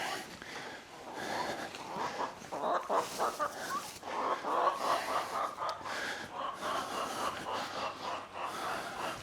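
Poultry clucking repeatedly.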